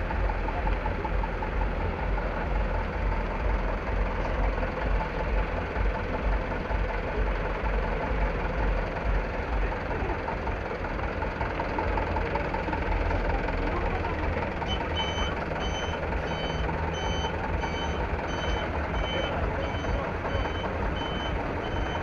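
Truck engine running with a steady low rumble; about two-thirds of the way through, the truck's reversing alarm starts beeping, roughly twice a second.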